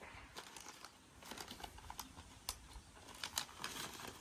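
Light crinkling and scattered small clicks of something being handled, fairly quiet.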